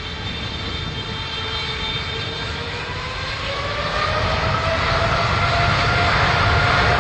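Jet airliner's engines running, with a whine that rises in pitch from about halfway through as the sound grows steadily louder.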